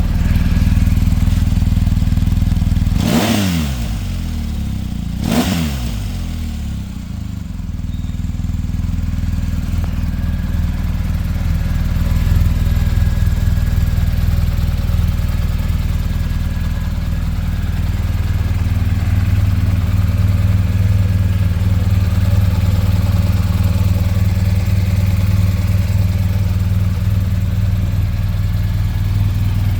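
BMW R 1250 GS boxer-twin engine idling steadily, blipped twice on the throttle about three and five seconds in, each rev rising and falling back quickly to idle.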